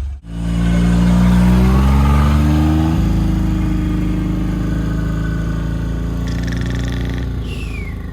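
Off-road vehicle engine accelerating hard, its pitch climbing for about three seconds after a sudden cut, then running steadily at speed. A short high falling squeal comes near the end.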